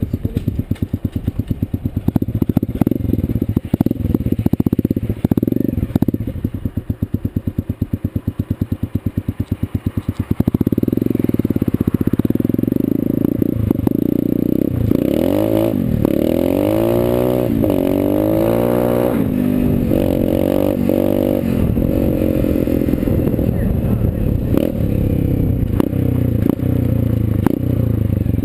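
Dirt Runner dirt bike's engine putting unevenly at low speed, then about ten seconds in running louder as it is ridden, its pitch rising and falling several times with the revs.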